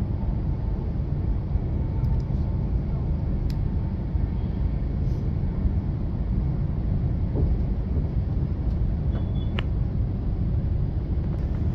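Cabin running noise of a Class 350 electric multiple unit at speed: a steady low rumble of wheels and running gear on the track, with a few faint clicks.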